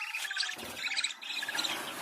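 Budgerigars chattering and warbling together, a dense run of quick overlapping chirps and chatter.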